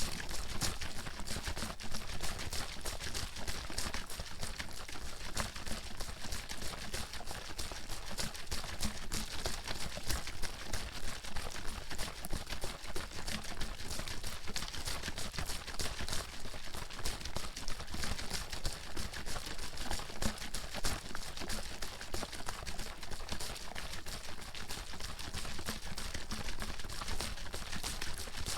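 Bottle of water being shaken hard and continuously, the water sloshing and slapping inside in a rapid, unbroken rhythm.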